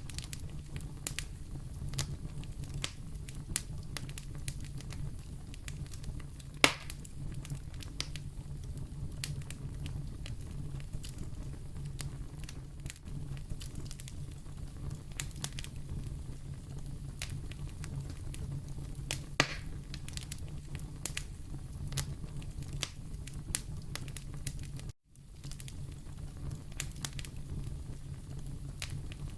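Wood fire burning in a fireplace, crackling with many small sharp pops over a steady low rumble, and two louder pops about 7 and 19 seconds in. The sound drops out for a moment about 25 seconds in.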